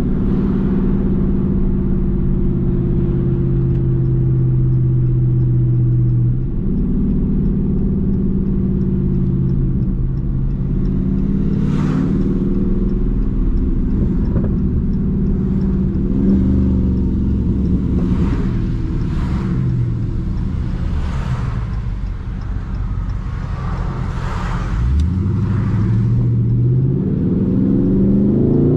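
Dodge Charger Daytona 392's 6.4-litre HEMI V8 cruising. The engine's pitch drops around 6 seconds in, shifts up and down in the middle, and rises steadily near the end as the car accelerates. A few brief rushing sounds are heard in between.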